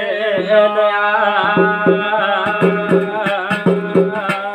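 Garhwali jagar music: a drum beating a steady, quick rhythm over a held low drone and a wavering melody line.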